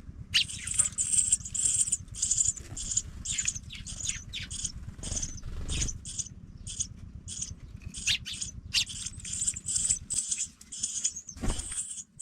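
Pipit nestlings cheeping in the nest: rapid, high-pitched squeaky calls, over a low rumble that stops about ten seconds in.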